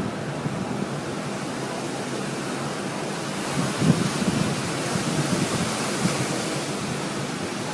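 Strong storm wind roaring over the microphone as a steady rush of noise, with low gusts swelling about four and six seconds in.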